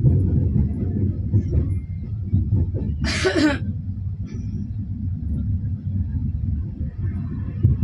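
Steady low rumble of a passenger coach rolling on the track at about 45 to 48 km/h while the train accelerates, heard from inside the coach. A brief hiss about three seconds in.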